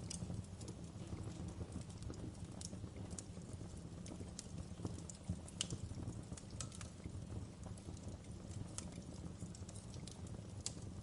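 Wood fire burning with a steady low rumble and frequent irregular sharp crackles and pops from the burning logs.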